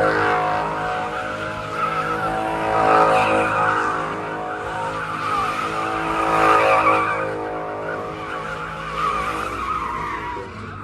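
A car doing donuts: engine running hard with tyres squealing and skidding on the pavement, the noise swelling and easing about every three seconds as it circles.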